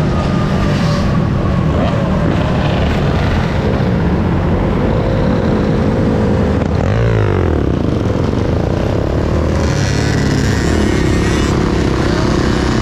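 Loud, steady wind and road noise from riding a dirt bike through city traffic, with engine or motor tones that rise and fall and waver in pitch midway through.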